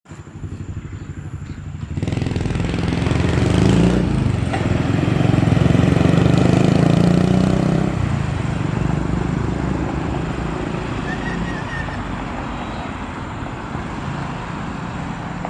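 A vehicle engine running. It swells about two seconds in, is loudest until about eight seconds in, then eases off slowly.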